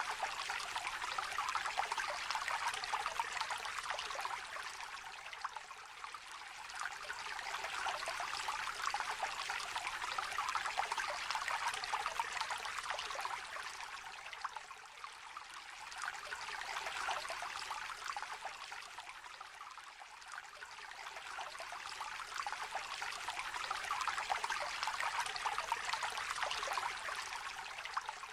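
Shallow river trickling and babbling over stones, a steady rush of small splashes that swells and eases in loudness a few times.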